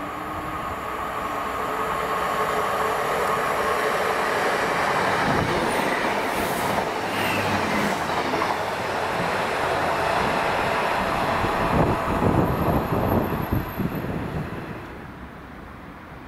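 A diesel train running through the station: the noise builds over the first few seconds, holds steady, then wheels click over rail joints in a quick series near the end before it fades away about fifteen seconds in.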